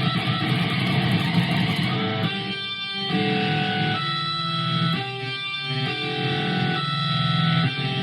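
Electric guitar played through a wah-wah pedal: held notes and chords whose upper tone brightens and fades every second or two.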